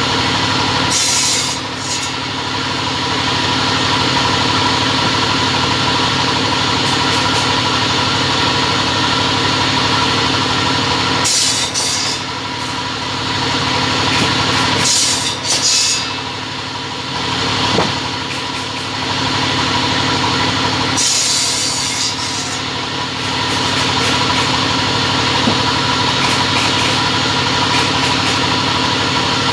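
Two-head cutting machine running with a steady motor hum, broken four times by a short hissing burst.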